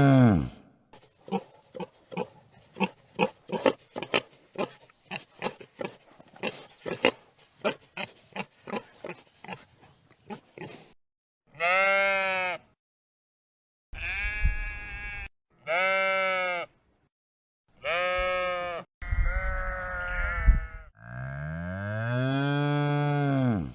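Farm animal calls: about ten seconds of quick, uneven grunting clicks, then five short calls that each rise and fall in pitch, and a longer mooing call near the end.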